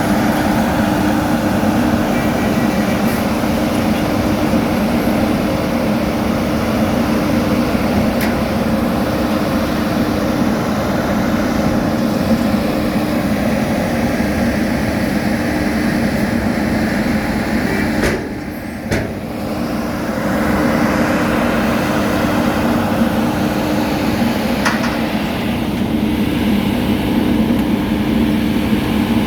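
Heavy diesel engines of road-paving machinery running steadily, a constant low hum under a broad engine noise. The level dips briefly about two-thirds of the way through.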